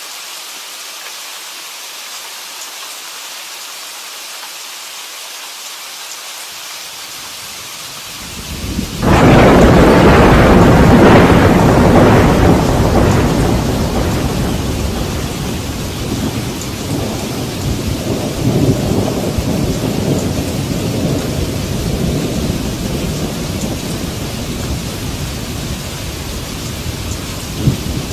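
Steady rain hiss; about nine seconds in, a loud clap of thunder breaks out and rolls on, slowly fading over the rest, while the rain keeps falling.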